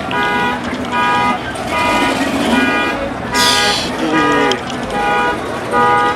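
Car horn sounding in short repeated blasts, roughly one a second, in an on-off pattern. A brief high hiss is heard a little past halfway.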